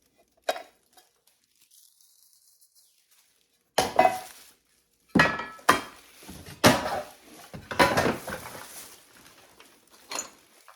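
Old metal tins being handled and set down, clattering and clinking against each other: a light knock, then a run of loud metallic clatters with brief ringing over the last six seconds or so.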